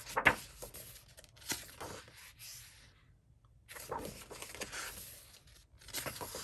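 Pages of a coloring book being turned by hand, the thick, smooth paper rustling and flapping in two spells of a few seconds each with a short gap between them.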